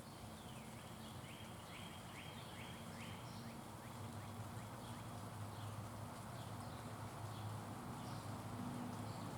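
A songbird calling a quick series of about six down-slurred whistled notes in the first three seconds, then a few faint scattered chirps. A low steady hum grows louder underneath.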